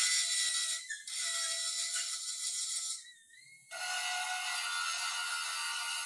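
Compressed-air tool hissing with a steady whistle, in three runs of a few seconds each: it cuts out briefly about a second in and again around the middle, then starts up again.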